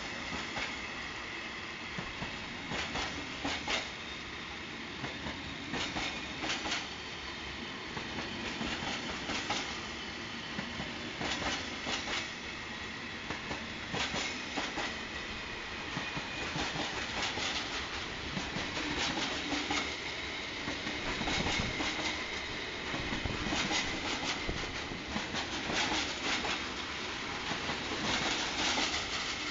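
Freight train of flat stake wagons rolling steadily past, its wheels clicking in pairs over the rail joints every few seconds, with a thin steady high ringing tone under the rumble.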